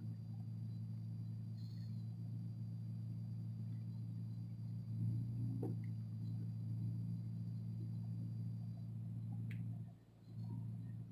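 Steady low hum of the Fiat 500 Abarth's engine idling, heard from inside the cabin. It cuts in abruptly at the start and drops out briefly about ten seconds in.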